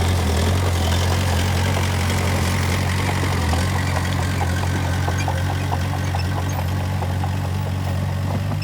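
Heavy diesel engine of a construction machine running steadily at low revs, with faint light clatter through the middle.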